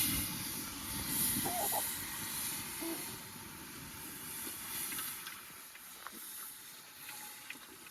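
A hiss that starts suddenly and fades slowly, with a few faint ticks near the end.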